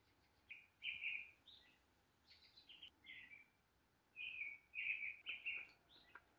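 Small songbirds chirping and twittering in short, high notes, in several bursts with brief gaps, busiest over the last two seconds.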